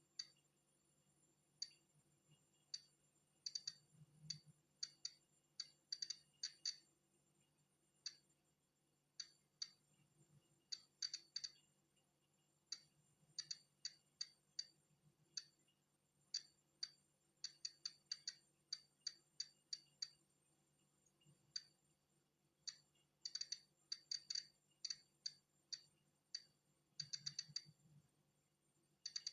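Polon EKO-C digital Geiger counter clicking at irregular, random intervals, sometimes singly and sometimes in quick clusters, each click marking a detected particle of natural background radiation.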